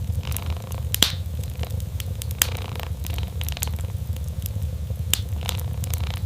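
Wood fire crackling, with irregular sharp pops about once or twice a second, the loudest about a second in, over a steady low rumble.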